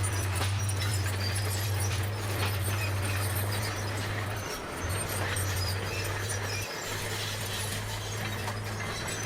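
Bulldozer diesel engine running with a steady low drone, with scattered clicks and clanks over it. The drone dips briefly twice, at about four and a half and about seven seconds in.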